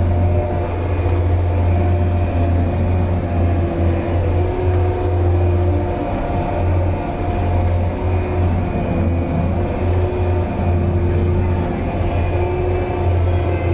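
Large diesel engine of heavy logging equipment running steadily, a constant deep hum with a slight waver in its pitch.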